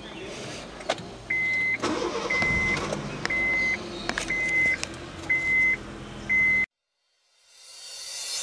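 A car engine being started: it catches about two seconds in and settles into a steady idle, while a dashboard warning chime beeps about once a second, six times. The sound cuts off abruptly near the end, followed by a rising hiss.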